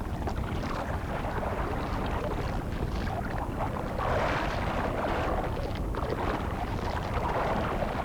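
Water churning and splashing as tiger sharks thrash at the surface feeding, a steady rushing noise that surges louder about halfway through and again near the end.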